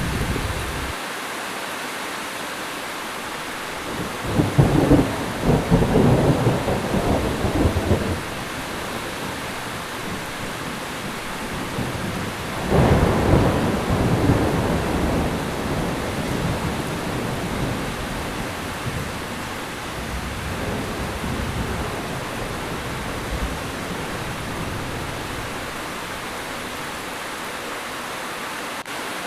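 Heavy rain pouring steadily, with two rolls of thunder rumbling through it: the first about four seconds in and lasting a few seconds, the second about thirteen seconds in.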